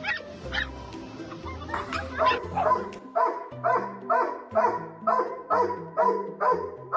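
Dog barking in short, evenly spaced barks, about two a second after the first couple of seconds, over background music.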